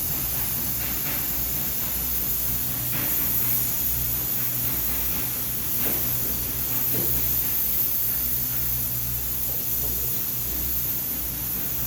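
Steady hissing noise with a low hum underneath that fades in and out, and a few faint taps.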